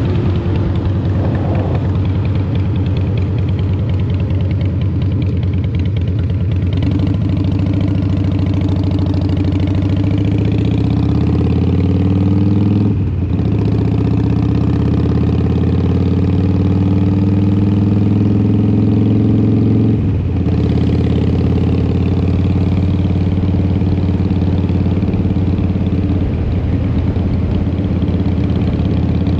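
2003 Harley-Davidson Fat Boy's Twin Cam 88 V-twin running through a Vance & Hines exhaust under way. The engine note climbs steadily in pitch, breaks off briefly about halfway through as at an upshift, climbs again, breaks once more about two-thirds through, then holds steady at cruise.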